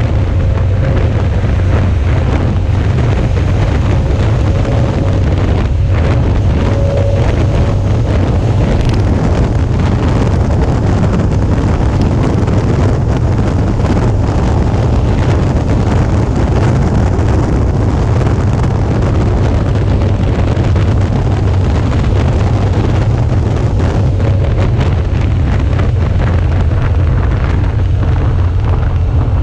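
Steady wind noise buffeting a GoPro action camera's microphone as a Suzuki V-Strom 650 motorcycle rides along at road speed, with the bike's running and road noise under the rumble.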